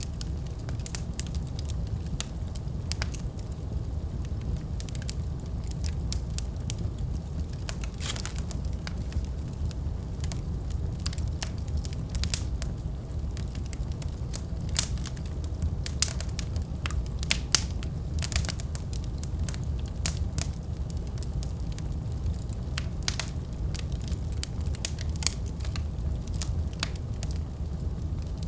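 Wood fire burning in a fireplace: a steady low rumble of flames with frequent irregular crackles and sharp pops from the burning logs, a few louder pops standing out.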